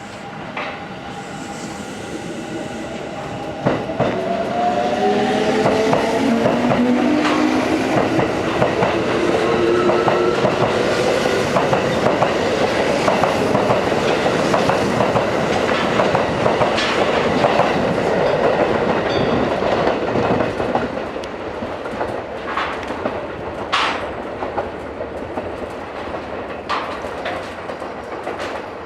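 Electric train pulling through: a motor whine climbs in pitch as it gathers speed, then the wheels clatter over rail joints with a loud rumble that eases off about two-thirds of the way through, leaving scattered clacks.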